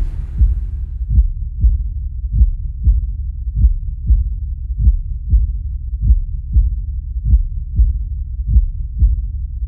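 A slow heartbeat: paired low thumps, about one pair every second and a quarter, over a steady low rumble.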